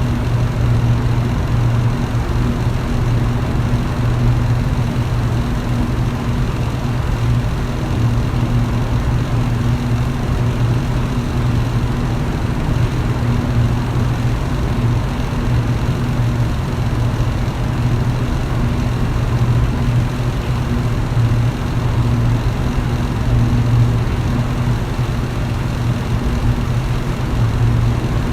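Electric fan running steadily: a constant low motor hum under the even whoosh of the blades moving air.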